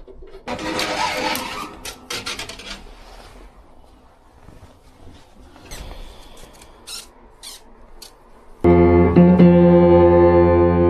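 Irregular rattling and rustling handling noise with a few light clicks. About three-quarters of the way in, background music with sustained organ-like keyboard chords starts abruptly and runs on at a much higher level.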